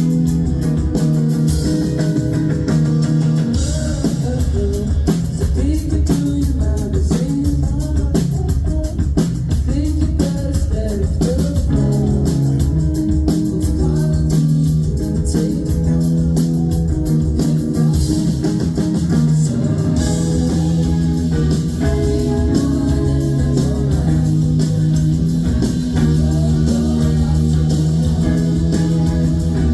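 A live rock band playing a song: electric guitars and bass guitar over drums, at a steady loud level throughout.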